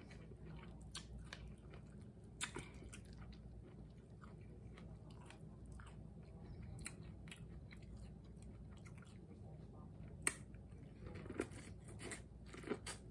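A person biting and chewing buttered corn on the cob close to the microphone: faint, scattered wet clicks and smacks of kernels being bitten off the cob, with a sharper click about ten seconds in and more bites near the end.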